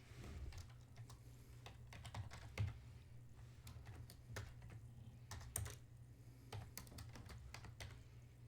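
Scattered light clicks and taps at irregular intervals, a few a second, two of them louder, over a low steady hum.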